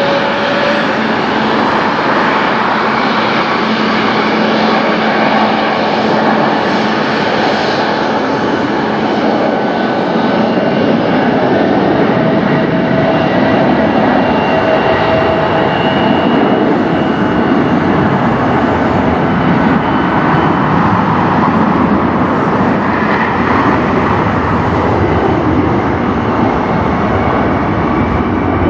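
Jet airliner taking off: its engines give a loud, steady noise with faint high whines riding over it, swelling slightly around the middle.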